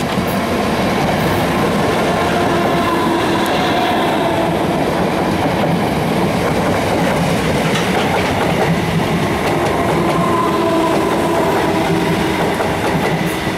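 Two coupled South West Trains Class 455 electric multiple units running past at close range, a loud, steady train noise that fades as the last cars go by at the end.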